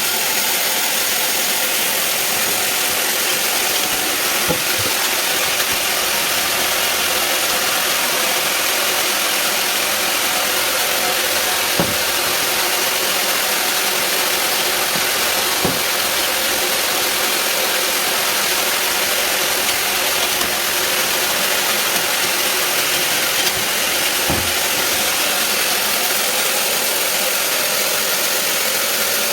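Band sawmill running through a large teak log: a steady, loud, high-pitched running noise of the blade and machine, with a few faint knocks.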